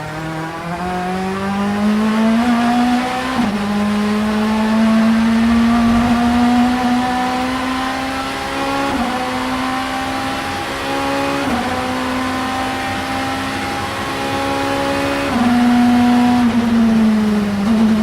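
Vauxhall Vectra Supertouring race car's 2.0-litre four-cylinder engine at full throttle, revs climbing through the gears with quick gear changes that briefly drop the pitch, then the revs falling near the end as it backs off.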